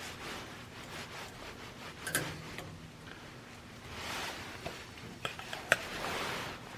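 Scattered light clicks and taps of metal parts being handled, the sharpest near the end, with two short hissing sounds about four and six seconds in.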